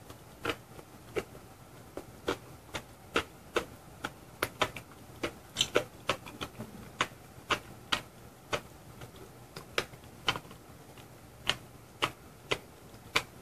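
A person chewing a mouthful of apple pie with a crunchy gold topping: irregular crisp crunches, about two a second.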